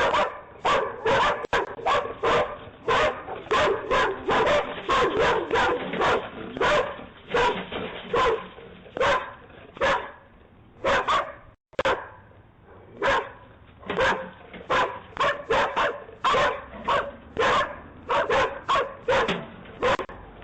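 Dogs barking over and over, about two barks a second, with a short lull around ten to twelve seconds in before the barking picks up again.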